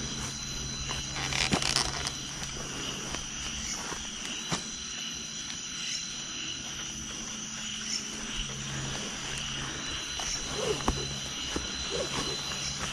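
Steady chirring of crickets and other night insects, with a thin high tone coming and going. A few brief rustles and knocks break in, the loudest about a second and a half in.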